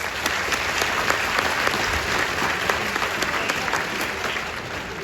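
Large crowd applauding, a dense wash of clapping with sharp individual claps standing out, tapering off near the end.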